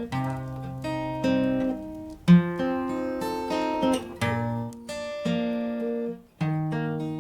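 Acoustic guitar playing a slow instrumental passage without singing, chords struck about once a second and left to ring.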